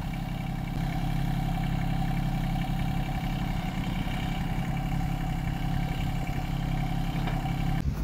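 John Deere 2320 compact tractor's three-cylinder diesel engine running steadily, a little louder about a second in. The sound stops abruptly near the end.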